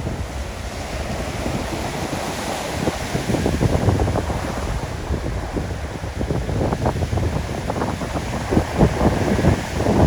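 Surf washing on a beach under strong wind, with gusts buffeting the microphone in uneven rumbling bursts that grow heavier in the second half.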